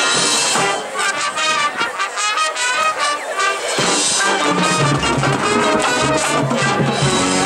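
High school marching band playing, brass out front. The deep low brass and bass drop out for a few seconds, leaving the higher parts with a wavering sound, then come back in strongly about four seconds in.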